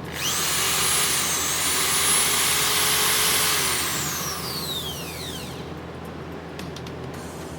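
Aegon AD602 230 W electric drill switched on: its motor whine climbs to speed at once, holds steady for about three seconds, then falls away gradually as the drill spins down after the trigger is released. A quieter hiss with a few faint clicks follows.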